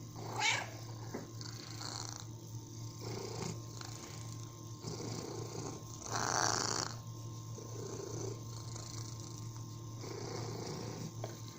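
Domestic cat purring steadily in slow in-and-out phases. A short falling cry comes near the start, and a brief louder sound about six seconds in.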